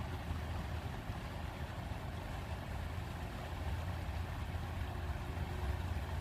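River water rushing steadily, a continuous noisy flow with a deep rumble underneath.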